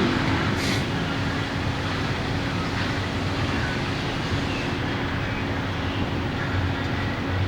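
Steady hum and rush of a running vehicle heard inside its cabin, with a faint short click about half a second in.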